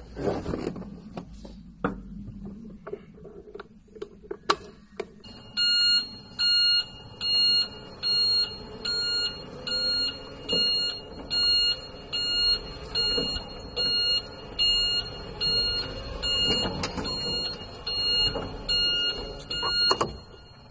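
Forklift warning beeper sounding in a steady series of identical high beeps, a little more than one a second, starting about five seconds in after a few sharp clicks and knocks.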